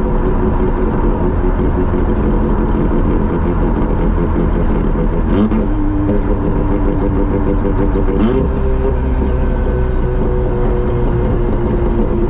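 Mazda RX-7's rotary engine and exhaust under way, a steady drone from the car that shifts pitch twice, about five and eight seconds in, as engine speed changes.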